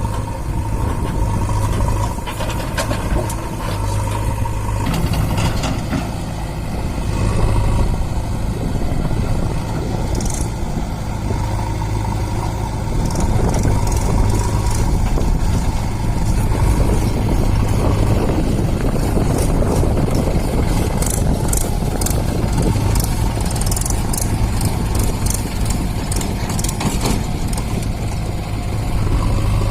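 Swaraj 744 FE tractor's three-cylinder diesel engine running steadily under load. A run of light rattles comes in over it in the second half.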